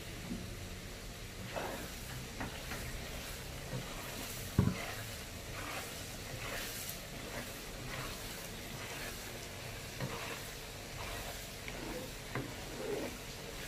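Mackerel skin and spice paste frying in a pan with a low sizzle, while a spatula stirs and scrapes, tapping the pan now and then. One sharper knock comes about four and a half seconds in.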